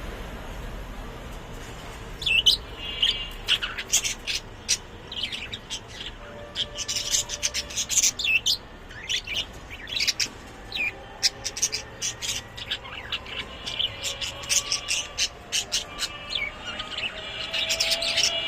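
Birds chirping in many short, high calls in quick, irregular succession, starting about two seconds in.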